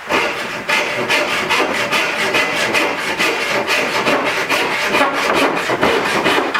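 Hand saw cutting through a small piece of dense old teak, quick back-and-forth strokes at about three a second, starting and stopping abruptly.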